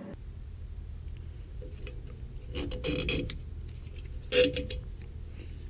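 Hand tools clicking and clinking against metal parts during rear brake and axle disassembly: a short run of clicks, then one sharp metallic clink with a brief ring, over a low steady hum.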